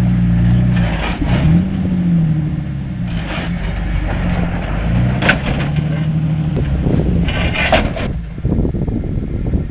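Off-road 4x4 truck engine revving under load as it crawls over rock; the engine note climbs and falls back, then holds steady. A few short sharp noises come over it in the second half.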